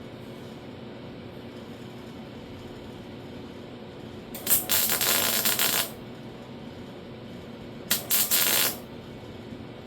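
Two tack welds on sheet steel, each a loud crackling hiss that starts abruptly: the first about four seconds in and lasting about a second and a half, the second near eight seconds in and lasting under a second. It is a new lower repair panel being tacked into a door skin.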